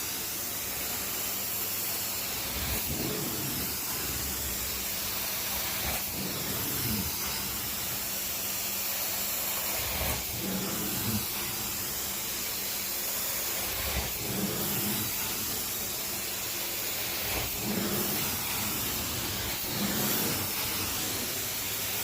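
Carpet-cleaning machine running with a steady hissing rush of air and spray over a low hum, with a soft low bump every three to four seconds.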